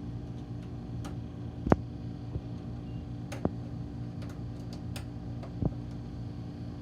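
Sharp clicks and taps of small screws and metal parts as screws are started by hand into the cover of a Blizzard machine, about five in all, the loudest about two seconds in. A steady low hum runs beneath them.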